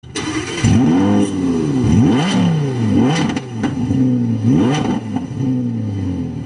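Car engine revving up and down over and over, several overlapping revs so that rising and falling pitches cross each other.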